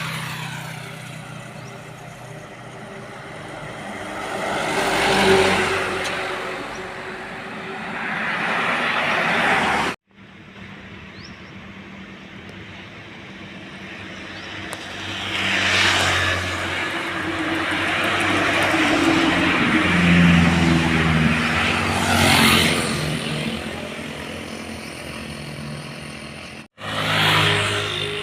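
Heavy diesel trucks driving past one after another, each engine and tyre noise swelling up and fading away. The sound cuts off abruptly twice.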